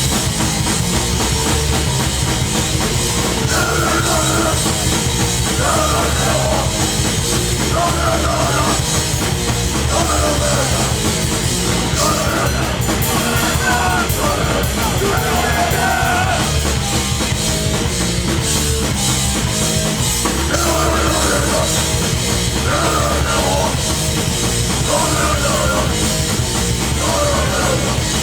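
Live hardcore punk band playing loud and fast, with distorted guitars and a pounding drum kit, and shouted vocals coming in and out in short phrases.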